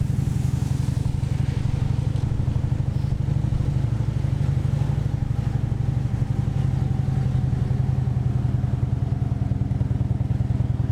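Harley-Davidson V-twin motorcycle engine running steadily at an even cruising speed, its pitch holding level.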